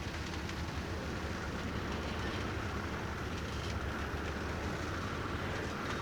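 Freight train rolling on the rails with a steady rumble, and a faint high wheel squeal building toward the end.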